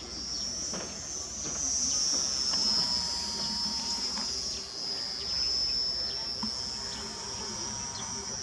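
Mini RC warbird's small electric motor and propeller whining high in flight. The pitch wavers and the level swells as the plane passes about two seconds in.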